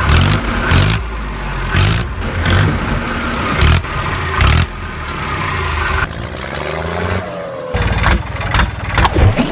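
Tractor engine running and revving under load as it pulls a stuck truck out of mud, chugging in uneven pulses with some short knocks and a few pitch glides in the later part.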